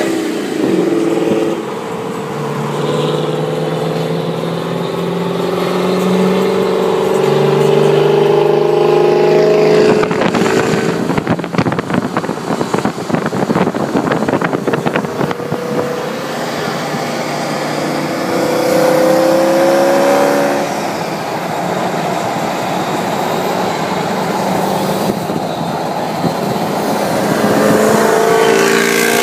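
Mercedes-Benz W211 E55 AMG's supercharged 5.4-litre V8 running alongside, its engine note climbing in pitch several times as it accelerates, with a rougher, harsher stretch in the middle.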